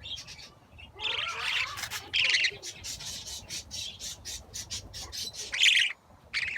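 Budgerigar chicks squawking: a few harsh, rasping calls with quick, short chirps between them, the loudest call coming near the end.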